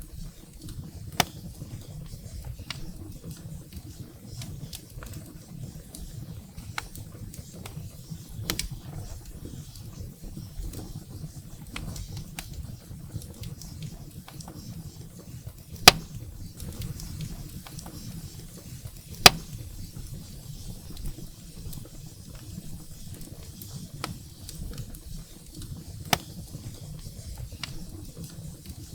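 Wood fire burning in a fireplace: a steady low rumble of flames with scattered crackles and sharp pops of burning firewood, the loudest pops about 16 and 19 seconds in.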